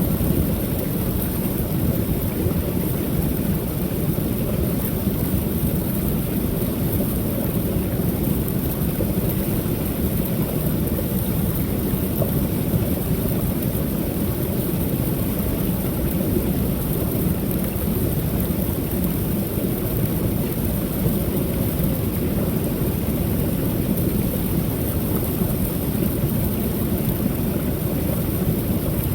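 Creek waterfall: water pouring over the falls in a steady, deep rushing without change.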